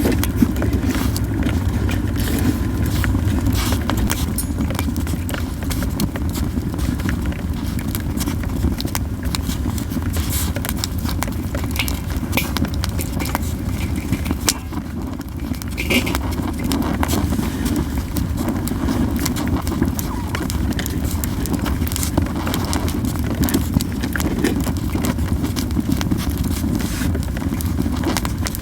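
Japanese yew firewood burning in a campfire, crackling with frequent irregular sharp pops over a steady low rumble.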